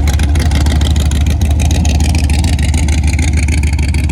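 A car engine running loud and steady, with a rapid, even exhaust pulse and a deep rumble.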